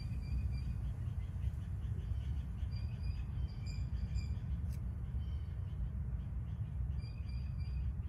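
Birds calling in short, level whistled notes that come in small clusters, over a steady low rumble.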